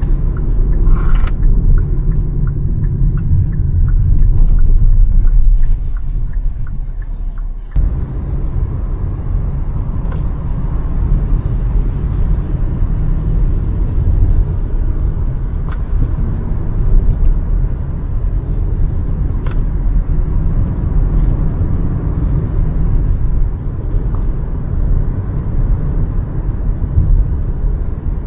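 Hyundai Verna 1.5-litre turbo petrol car on the move: a steady, loud low rumble of engine and road noise, which changes abruptly about eight seconds in, with a few faint clicks.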